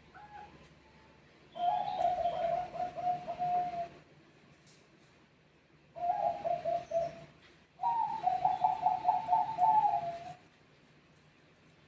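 Zebra doves (Bangkok perkutut) cooing, answering one another. There are three phrases of quick, rolling coo notes, each starting higher and dropping in pitch, with pauses between them.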